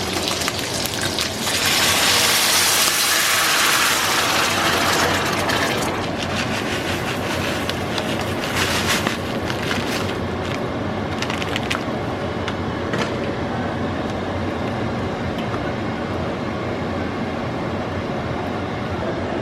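Heavy rain and storm runoff water rushing down a flooded drainage channel, a steady noise that swells louder for a few seconds near the start. Scattered sharp ticks come through around the middle.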